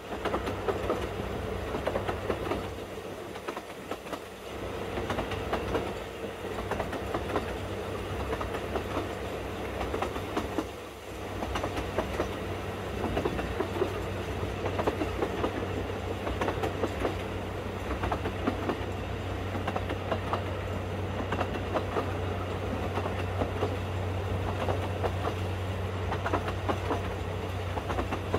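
Narrow-gauge train running along the line, wheels clicking and clattering over the rail joints over a steady low drone. There is a brief lull about eleven seconds in, after which the drone is a little stronger.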